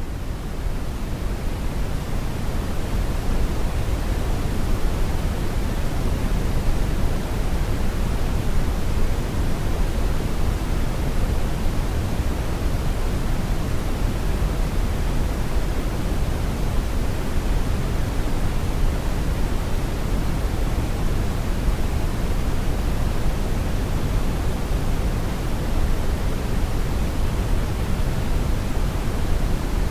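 Brown noise: a steady, even rushing hiss weighted toward the deep lows, with no tones or rhythm. It is still rising slightly from its fade-in over the first few seconds, then holds level.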